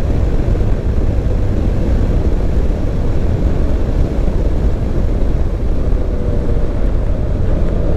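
A vehicle driving along a road, giving a steady low rumble of engine and road noise.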